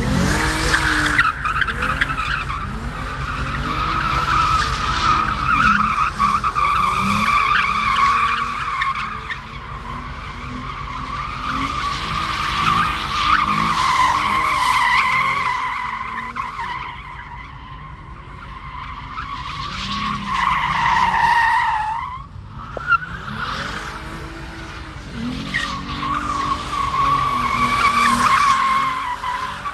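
Car tyres squealing in long, wavering screeches as the wheels are spun, with the engine revving up and down underneath. The squeal breaks off briefly about two-thirds of the way through, then starts again.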